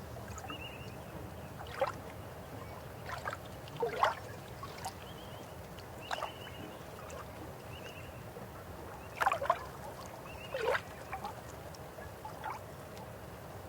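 River water flowing steadily, with irregular gurgles and splashes standing out every second or few.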